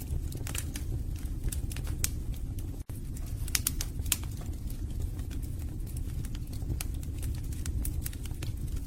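Wood fire in a fireplace crackling, with irregular sharp pops and snaps over a steady low rumble of flames. The sound cuts out for a split second about three seconds in.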